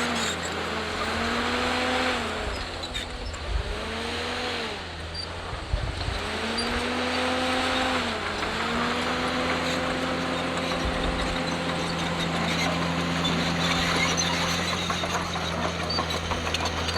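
Diesel engines of earthmoving machines: one engine's pitch rises and falls repeatedly, about every two seconds, over another engine's steady drone.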